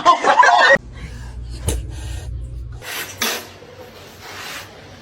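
A cat's loud, drawn-out meow, cut off under a second in. Then a quieter stretch with a low hum, a single click and a few short bursts of rustling noise.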